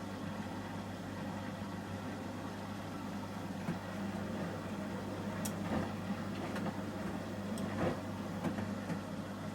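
Samsung Series 5+ AI SmartThings washing machine in the Ecobubble detergent stage of a 30°C shirts cycle: a steady motor hum as the drum turns, with scattered light clicks and knocks from the tumbling load in the second half.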